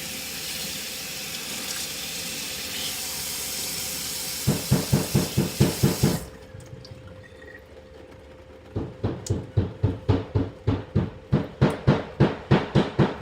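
Water running from a tap over hair, shut off suddenly about six seconds in. Two runs of rapid knocking, about five blows a second, come from neighbours working upstairs: one just before the water stops and a longer one after it.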